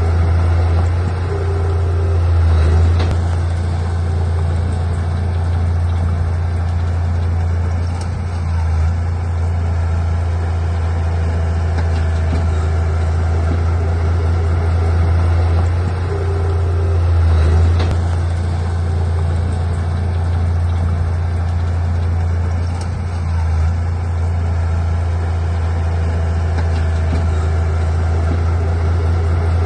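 Heavy earthmoving machine's diesel engine running steadily with a deep, constant hum, with a few faint metallic clanks.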